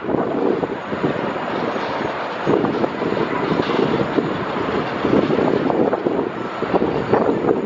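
Airbus A380's four jet engines running loud as the airliner passes, a dense rumble that swells and fades unevenly.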